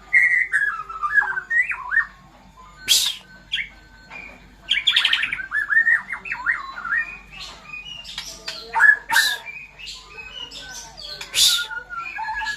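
Caged songbirds calling: quick whistled phrases that glide up and down, broken by short harsh rasping squawks about three, nine and eleven seconds in.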